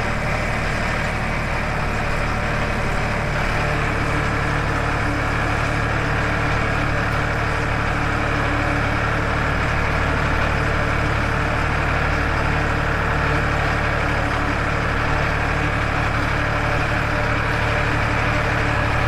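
Farmtrac 60 tractor's three-cylinder diesel engine running steadily, its note rising a little and getting slightly louder about four seconds in.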